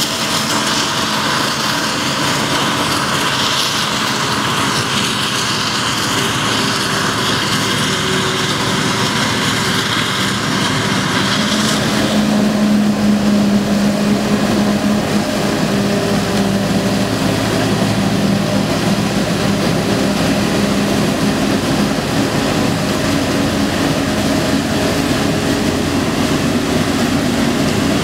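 Maize-chopping machinery, a forage harvester with its tractors, running steadily under load. About twelve seconds in, a high hiss drops away, leaving a deeper steady engine drone.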